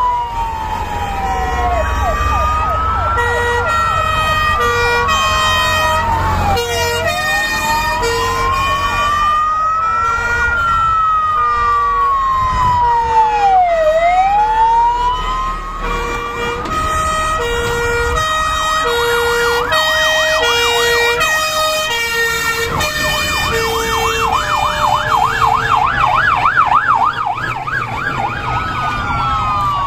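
Several fire engine sirens sounding at once as a convoy passes: slow wails rising and falling over several seconds, overlapping two-tone hi-lo signals alternating about once a second, and a fast warbling yelp joining about two-thirds of the way through.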